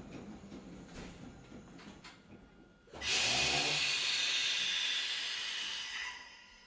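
Hakone Tozan Railway Moha 1 electric car at or near a halt: the low running rumble dies away, then about three seconds in a loud hiss of compressed air is let out, lasting about three seconds before tailing off.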